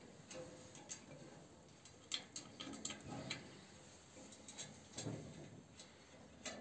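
Scattered light clicks and taps of small metal glass-retaining clips being handled and fitted against a cast-iron stove's frame and glass, with a duller knock about five seconds in.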